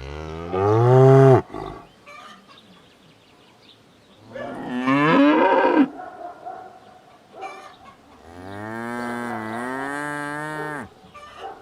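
A cow mooing three times: two loud moos of about a second and a half, then a longer, quieter moo near the end.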